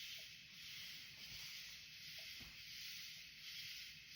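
Faint, steady night chorus of crickets outside: a continuous high, even drone of insect song.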